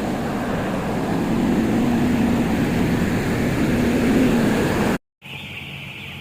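Loud steady rumbling noise with a low hum for about five seconds, then after a cut a shed full of broiler chicks peeping steadily.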